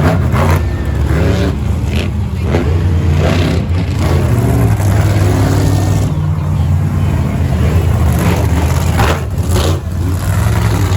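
An engine running steadily at a low, even pitch, with people's voices around it.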